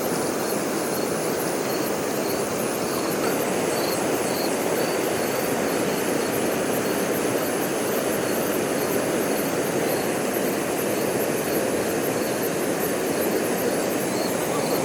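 Steady rush of stream water, with insects chirping high above it in a fast, even pulse.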